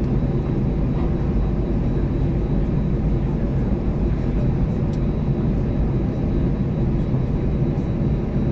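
Airbus A320's CFM56 engines at taxi power, heard inside the cabin as a steady low rumble with a constant hum.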